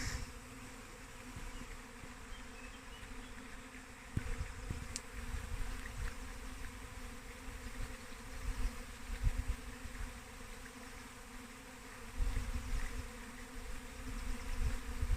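A swarm of honeybees buzzing, a steady hum of many wings. Low rumbles come and go a few times.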